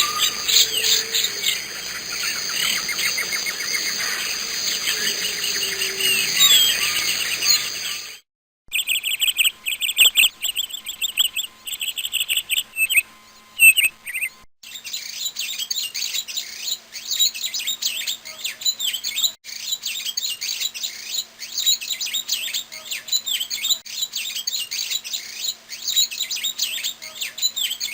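Songbirds chirping and singing in several spliced recordings. It opens with a dense chorus of overlapping songs and trills, cuts about eight seconds in to sparser chirps, then cuts again about halfway through to rapid, high repeated chirps over a faint steady hum.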